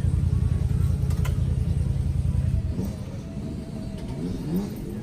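A vehicle engine running close, a loud pulsing low rumble that drops off about two and a half seconds in. It is followed by a fainter engine note that rises and falls in pitch.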